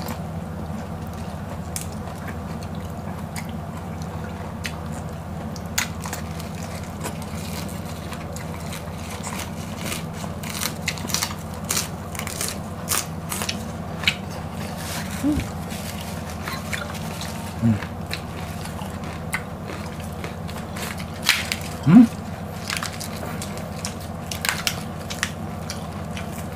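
Close-up chewing and crunching of raw leafy vegetables, with scattered crisp bites and wet mouth sounds, over a steady low background hum. A few short hums break in, the loudest about two-thirds of the way through.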